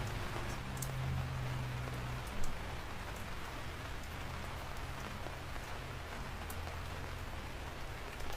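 Steady rainfall, with scattered sharp drop hits standing out from the patter. A low steady drone sits under the rain for the first two seconds.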